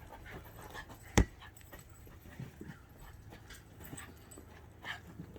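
Puppies playing and scuffling, with scattered small knocks and one sharp thump about a second in.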